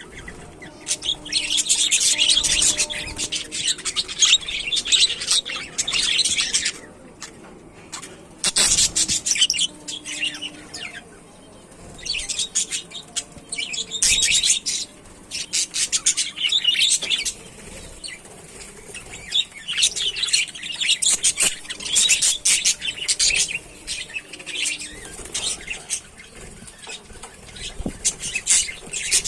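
A flock of budgerigars chattering and chirping in busy bouts of several seconds, with short lulls between them.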